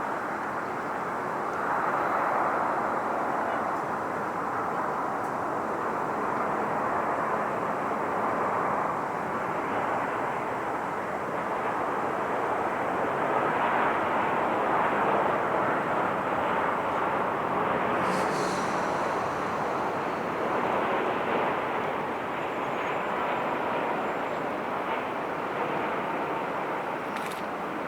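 Boeing 787 Dreamliner landing: a steady rushing jet noise from its turbofan engines that swells and eases, with a faint high tick twice.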